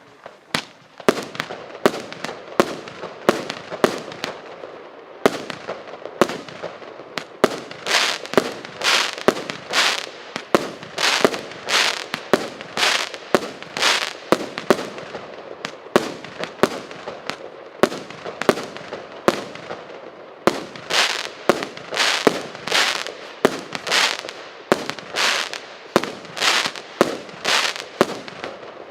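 Consumer firework battery (cake) firing shot after shot, about two a second, each launch followed by a short crackling burst.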